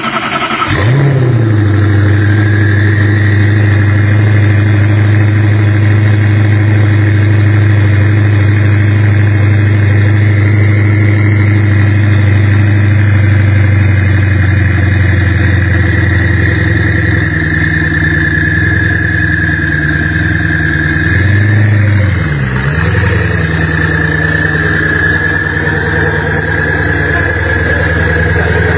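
Koenigsegg One:1's twin-turbo V8 running at a steady idle just after starting, settling from the start-up flare in the first second, with a steady high turbo whistle over the low engine note. About three-quarters of the way through, the engine note briefly dips and comes back up.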